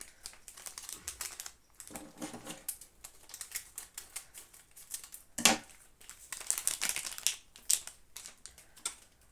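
Quick irregular clicks and crinkles of hands handling instant noodle packets and seasoning sachets, with one louder knock about five and a half seconds in.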